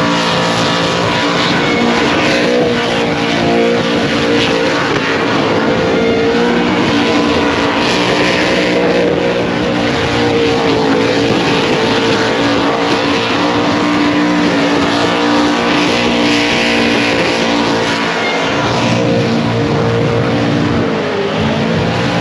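Car engine held at high revs during a burnout, its pitch wavering slightly, with tyre-spin noise swelling at times.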